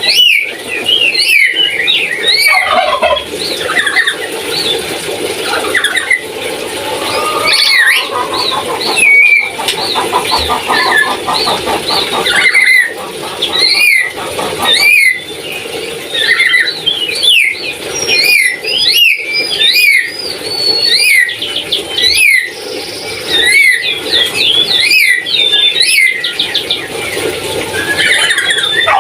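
Lory (nuri) from Papua calling on and on: a run of sharp rising and falling chirps and squawks, with a rapid buzzy trill about ten seconds in.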